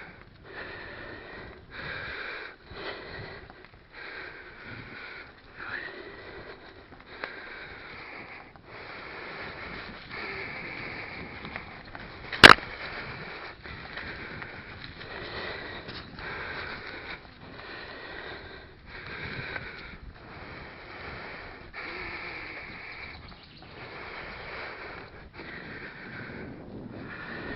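Cyclist breathing hard while pedalling, one breath roughly every second. A single sharp click about halfway through is the loudest sound.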